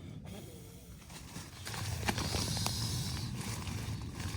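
A nylon pump sack being squeezed to push air into an inflatable sleeping mat: fabric rustling and handling, with a rush of air hissing through from about two seconds in, over a low rumble.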